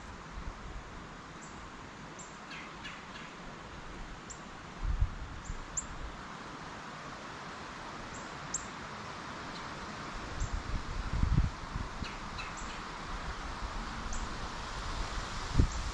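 Small songbirds giving short, high chirps now and then, a small cluster a few seconds in and another about twelve seconds in, over a steady hiss. There are a few low thumps about five seconds in and again around ten to eleven seconds.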